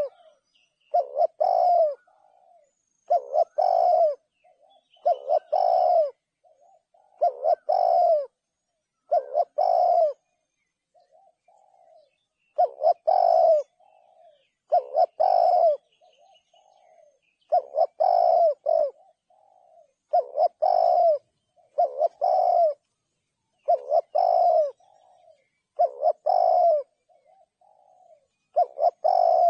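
Spotted dove cooing. It repeats its call about every two seconds, each call a loud low coo of about a second, with soft short notes between the calls.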